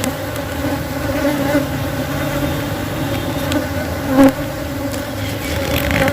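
Many Asian honey bees (Apis cerana) buzzing around an opened hive: a steady, continuous hum, with one brief louder swell about four seconds in.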